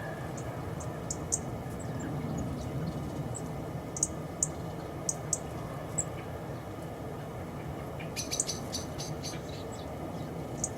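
Small garden birds chirping: short, high, scattered calls, with a quick flurry of chirps about eight seconds in, over steady low background noise.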